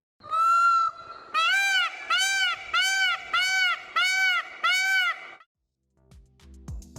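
Peacock calling: one long, high call, then a run of six short, loud, arched honks at about two a second.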